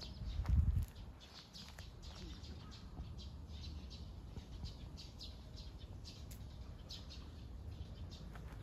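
Small birds chirping in short, scattered high notes, with a brief low rumble on the microphone about half a second in.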